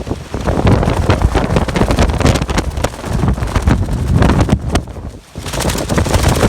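Typhoon Hagibis winds buffeting the microphone in gusts: a loud, rumbling wind noise that rises and falls. It drops away briefly about five seconds in, then another gust comes back with more hiss.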